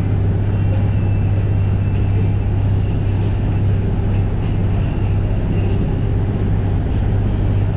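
Passenger boat's engines droning steadily while under way, a constant low hum with the wash of water and wind over it.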